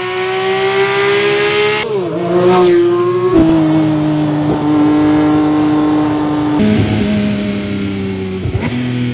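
Porsche 911 GT3 RS's naturally aspirated flat-six engine at high revs, its note climbing under acceleration for about two seconds. The sound then changes abruptly several times to steadier, slightly falling or lower notes as the car passes.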